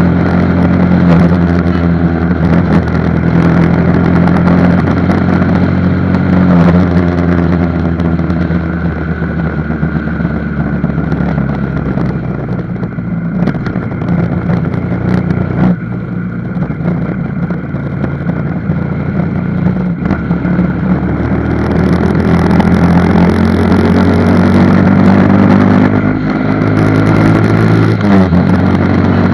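Motorcycle engine running on the move, its pitch falling as it slows and rising again as it accelerates, with a drop near the end.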